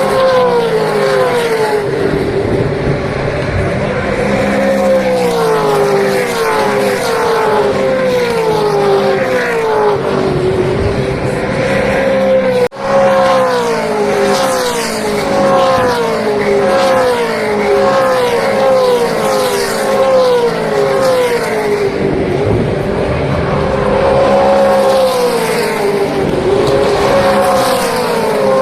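Supercars race cars' V8 engines running hard on the circuit, one car after another, their engine notes sweeping up and down in pitch over and over. The sound drops out for an instant about halfway through.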